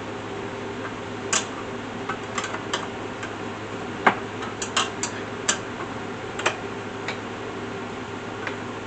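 Scattered, irregular clicks and light knocks from hardware being handled and adjusted on an Alaskan chainsaw mill frame, over a steady low hum.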